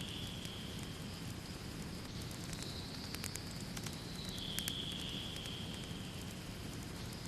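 Fire burning in a fireplace with a steady low rumble and scattered sharp crackles and pops. A faint high hiss comes and goes for a couple of seconds at a time.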